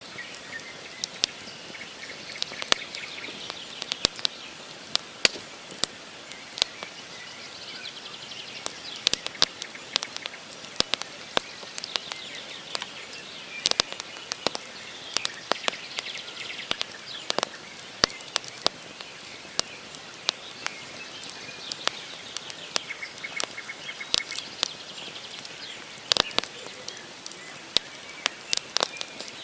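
Wood campfire burning, with logs crackling and popping in irregular sharp snaps over a soft steady hiss. Birds call faintly in the background.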